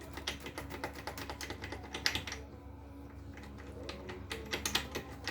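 Rapid light metallic clicks and taps from hand tools working on the engine's rod and piston area, with a louder clack about two seconds in.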